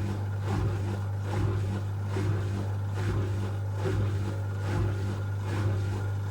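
Asko Quattro W6098X washing machine running in its final spin phase: a steady low hum with a regular surge about every 0.8 s.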